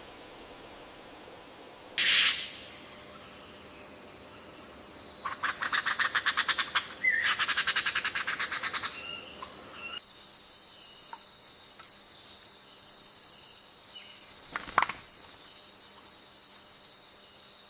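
Rainforest ambience: birds calling over steady high insect tones, with a loud short call about two seconds in and a rapid pulsing trill around the middle.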